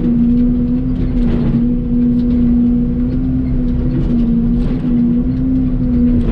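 Excavator's diesel engine running at a steady speed with a constant hum, and a few faint knocks over it.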